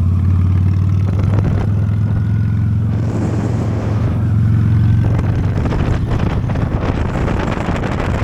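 Honda Steed motorcycle's V-twin engine running steadily while riding, with wind rushing over the microphone growing stronger in the second half.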